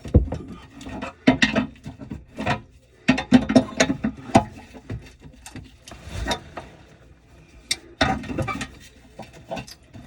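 Irregular knocks, clanks and scraping of hand tools and old drain pipe as a kitchen sink drain joint is worked loose, with several hard knocks bunched together about a second in, around three to four seconds in, and near the end.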